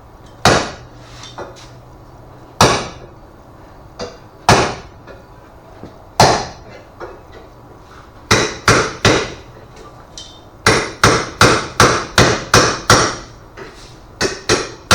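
Hand hammer striking sheet steel, shaping a patch panel by hand: single blows a couple of seconds apart, then quicker runs of ringing strikes about three or four a second.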